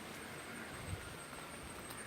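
Faint outdoor background: an even low hiss with a thin, steady high-pitched tone, and a soft knock about a second in.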